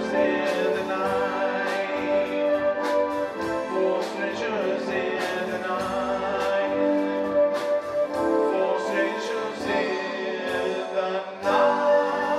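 Live band playing an instrumental passage, sustained melody over a steady beat.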